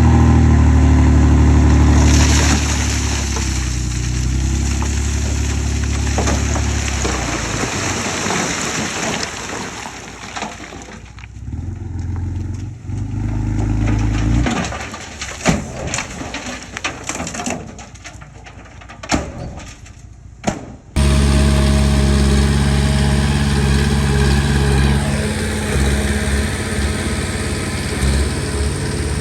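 Komatsu D20P crawler bulldozer's diesel engine running under load. Partway through it drops to a lower level with scattered sharp clanks. About two-thirds of the way in it cuts abruptly back to a loud, steady engine.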